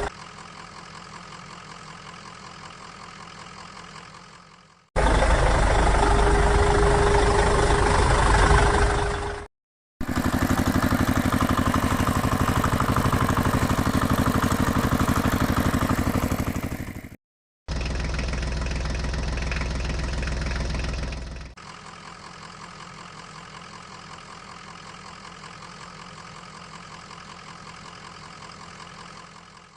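Engine running and idling sounds in a run of separate clips that cut in and out abruptly, two of them much louder than the rest, with two brief silent gaps.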